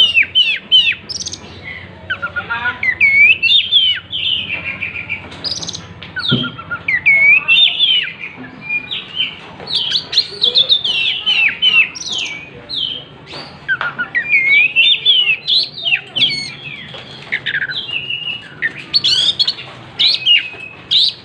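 Oriental magpie-robin singing without pause: a loud, rapid, varied run of whistled notes, sweeping chirps and trills.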